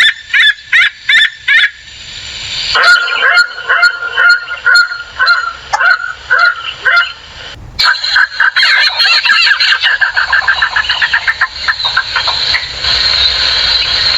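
Wild African birds calling: a run of loud calls repeated several times a second. After an abrupt cut about eight seconds in, a denser stretch of rapid, chattering calls follows.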